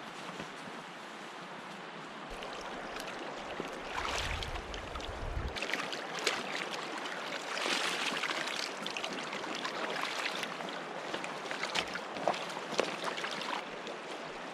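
River water flowing steadily, with a brief low rumble about four seconds in and a few light ticks near the end.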